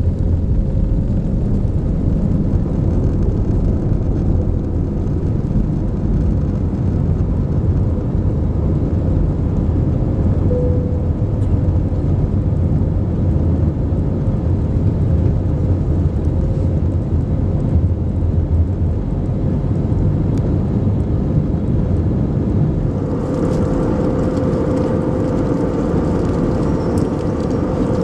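Airbus A321neo heard from inside the cabin: a loud, steady rumble of engines and airflow with a faint steady hum. About 23 seconds in the sound changes, as a higher hum and more hiss come in.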